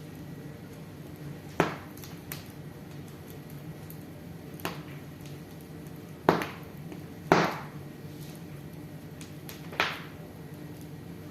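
Wood fire crackling in a fireplace: about six sharp pops and snaps at irregular intervals over a steady low background, the loudest a little past six and seven seconds in.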